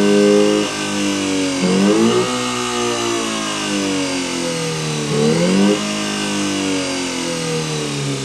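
Homemade optical engine-sound generator imitating a Subaru EJ20 flat-four with equal-length exhaust, free-revving. The pitch is held high at first and drops under a second in. It blips up and falls back twice, around two seconds in and again around five seconds in.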